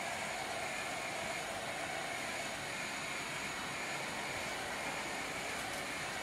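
Steady hum and hiss of an idling vehicle, unchanging throughout.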